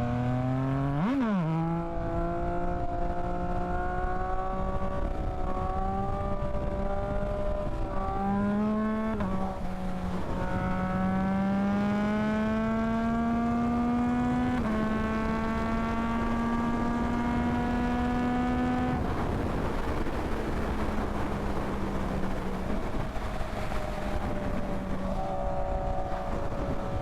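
Yamaha MT-09's three-cylinder engine running while riding, with a quick rev up and down about a second in, then slow climbs in pitch under acceleration broken by short steps where it shifts up. From about two-thirds of the way through, the engine tone gives way to a rushing hiss off the throttle, and the engine note returns near the end.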